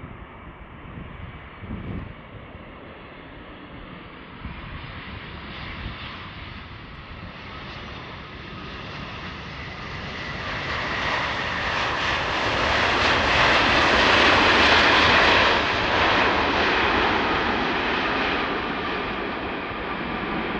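Large jet airliner on landing approach passing close by: the engine noise, with a steady high whine in it, swells to a peak about two-thirds of the way through and then eases off slightly.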